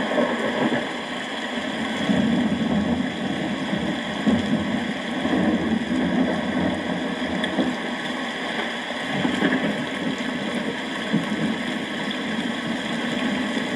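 Steady rain with a low rumbling underneath.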